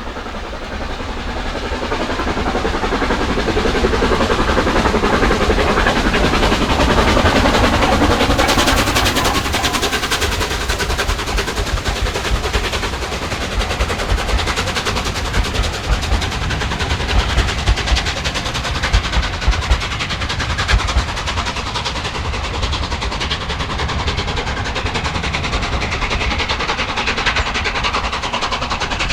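LNER A4 three-cylinder steam locomotive with its exhaust beating in quick succession, growing louder over the first few seconds as it approaches. Its train then rolls past with a run of sharp clicks and knocks from the wheels.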